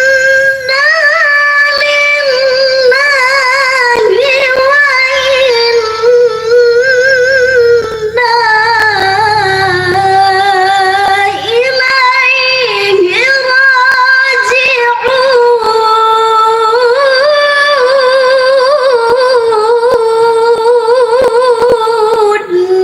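A woman reciting the Quran in the melodic tilawah style: long, high, ornamented phrases with wavering pitch, broken by short breaths. She settles on a lower held note and stops near the end.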